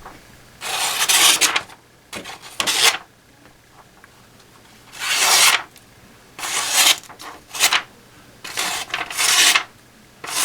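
Paper being sliced by a freshly sharpened blade: about six separate rasping cuts, each lasting under a second, with short pauses between them.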